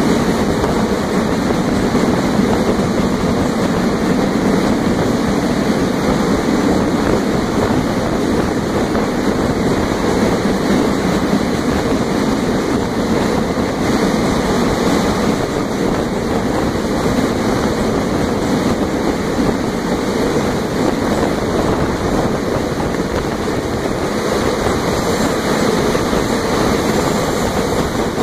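Train running through a rail tunnel, heard from aboard: a loud, steady roar of wheels on rails, closed in by the tunnel walls.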